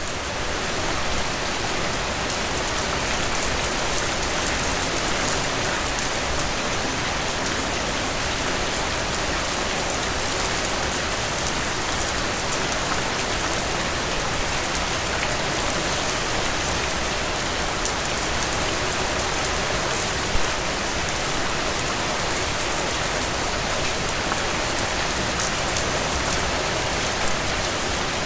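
Strong rain falling steadily, an even hiss of drips and drops with no let-up; a single louder drop stands out about two-thirds of the way through.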